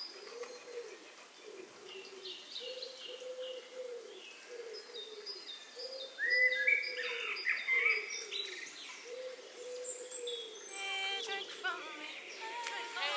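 Birds calling: a low hooting call repeated over and over, joined about halfway through by higher chirping calls.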